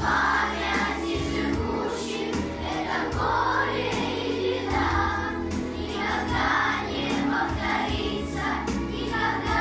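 A school children's choir singing with instrumental accompaniment, long held notes moving from phrase to phrase.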